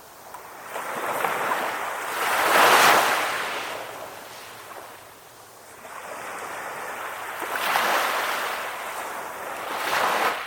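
Calm ocean waves washing in and drawing back in slow swells. The biggest surge crests about three seconds in, and two smaller ones come near eight seconds and just before the end.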